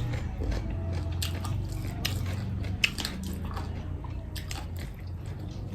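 Close-up chewing and mouth sounds of eating curry and rice, with scattered wet clicks and smacks over a steady low hum.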